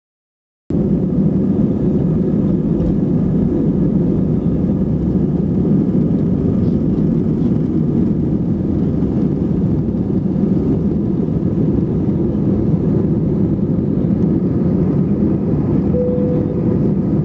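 Steady engine and airflow noise heard inside an Airbus A320 cabin, a dense low rushing sound. It cuts in abruptly after a moment of silence.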